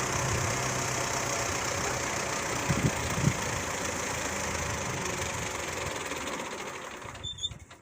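An engine idling steadily with a low hum and a couple of brief knocks midway. The sound cuts off abruptly near the end.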